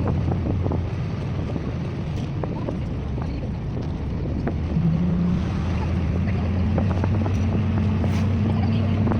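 A motor vehicle engine drones steadily with a low hum. About halfway through a higher engine tone comes in and steps up a little, as the engine revs.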